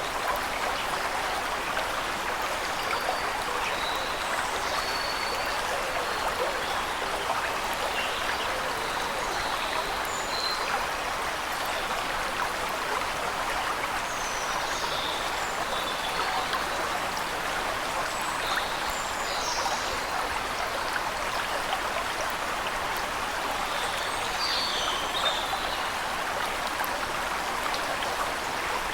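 Waterfall rushing in a steady, even wash of falling water, with birds chirping briefly and sparsely above it throughout.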